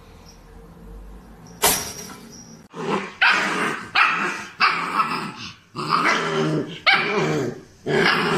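A dog barking and growling in a run of about seven drawn-out calls, starting abruptly after a second and a half of quiet.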